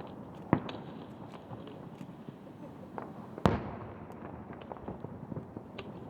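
Fireworks show: two loud shell bursts about three seconds apart, the second echoing as it dies away, with scattered smaller crackles between.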